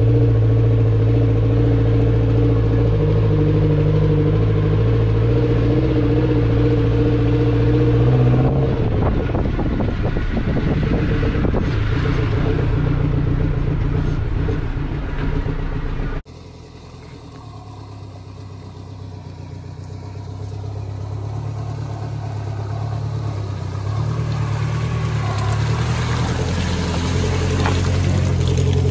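Maruti Suzuki Gypsy's four-cylinder petrol engine running steadily while the 4x4 drives along a rough dirt track, heard close up from the body of the vehicle. A sudden cut about halfway through drops the level, after which the engine grows steadily louder as the Gypsy works through mud.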